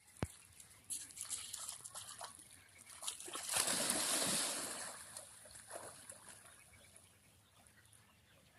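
A rottweiler splashing in water as it swims, the splashing loudest about three and a half to four and a half seconds in and then dying away. A sharp click comes right at the start.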